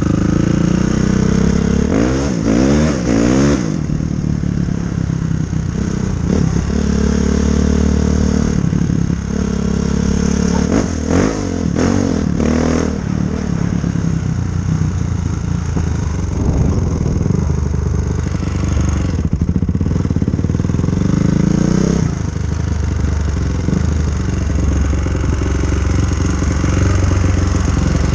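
Honda CRF450R's single-cylinder four-stroke engine running loudly, revved up and down a few times, notably a few seconds in and again near the middle.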